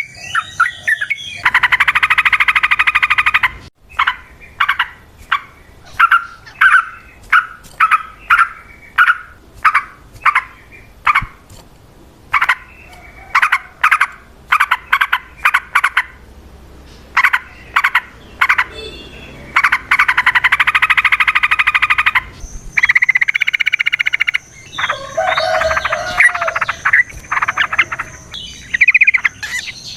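Yellow-vented bulbul (trucukan) singing a long, loud chattering song: strings of short bubbly notes broken by long, fast rattling trills, one just after the start and another about two-thirds of the way through.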